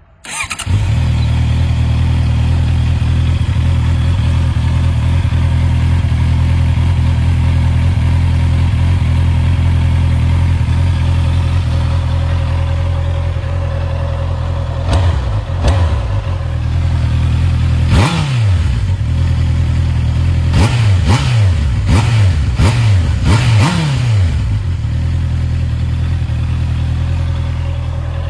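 Honda CB650R's inline-four engine through its stock exhaust, starting up and settling into a steady idle. In the second half the throttle is blipped repeatedly, each quick rev rising sharply and falling back to idle.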